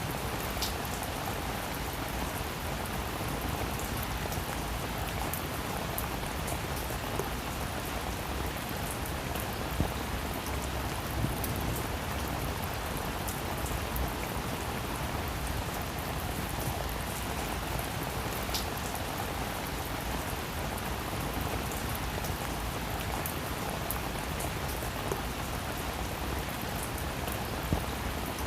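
Steady rain falling on a roof, an even hiss of rain with individual louder drops striking now and then.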